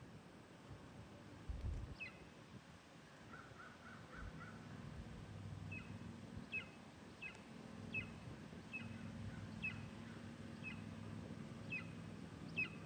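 Juvenile eagle calling: short, high, sharp notes that drop in pitch, a few scattered at first and then about one a second through the second half, with a faint steady low hum underneath.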